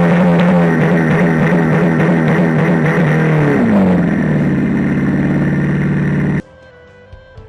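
A vehicle's loud, steady droning tone slides down in pitch about three and a half seconds in and cuts off abruptly near the end, leaving faint music.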